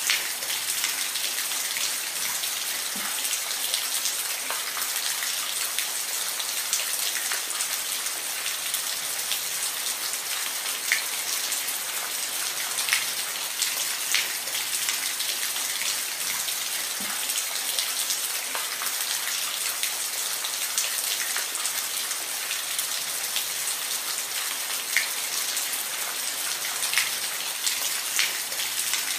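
Steady rain falling: an even hiss with individual louder drops striking every second or so.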